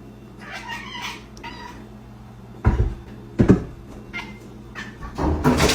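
A cat meowing in short calls, with two thumps about three seconds in, less than a second apart.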